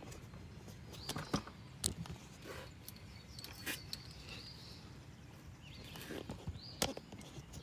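A few faint, scattered clicks and knocks from tools and parts being handled, with faint bird chirps.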